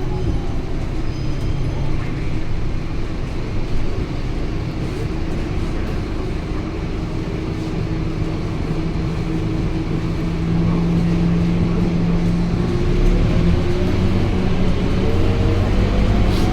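Diesel engine of a Scania K230UB single-deck bus running steadily, its hum growing louder and its pitch rising over the last few seconds.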